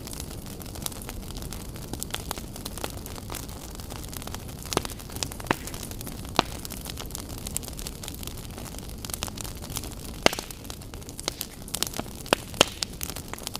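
Wood fire burning in a fireplace: a steady low rush of flames with irregular crackles and sharp pops, a few louder snaps scattered through.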